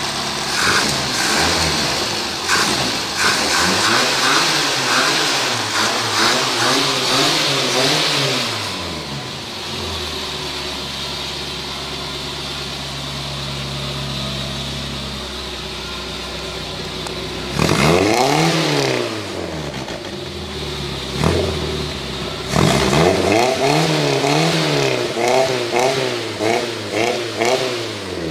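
1965 Vauxhall HA Viva's engine revved by hand at the carburettor throttle. It gives a series of blips up and back down, settles to a steady idle for several seconds, then one big rev, then a quick run of short blips near the end.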